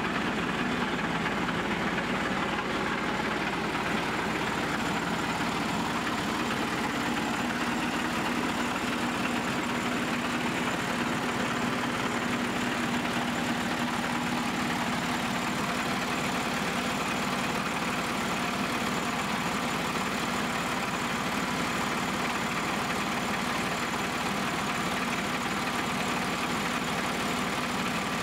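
1975 John Deere 350C crawler dozer's engine idling steadily.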